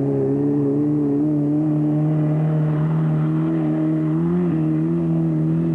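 Off-road race car engine running at steady, held revs. The pitch shifts up slightly about four and a half seconds in.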